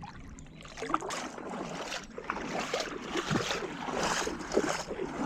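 River water splashing and sloshing in irregular bursts.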